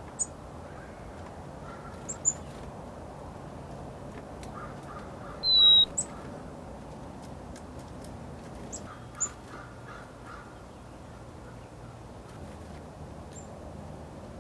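Small birds calling: a few brief high-pitched chirps scattered through, and one louder clear whistled note about five and a half seconds in, with fainter lower calls now and then over a faint steady hum.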